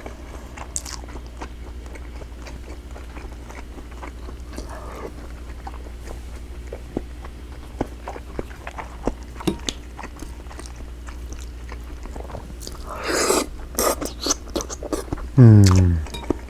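A person chewing and biting food close to the microphone, with small mouth clicks and smacks over a steady low hum. About 15 seconds in comes a short voice sound that falls in pitch.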